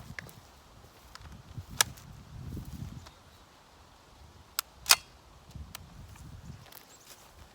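Gun being handled and readied before shooting: a few sharp clicks, the loudest about two seconds and five seconds in, over a low rumble of handling and movement.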